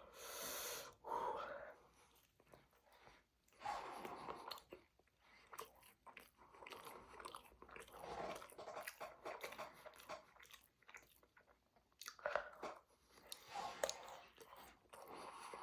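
A person chewing and biting food close to the microphone, with crunching and wet mouth sounds in irregular bursts.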